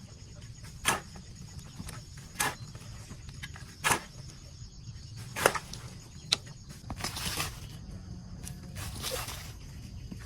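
A series of sharp knocks, about one every second and a half, then two longer bouts of rustling near the end.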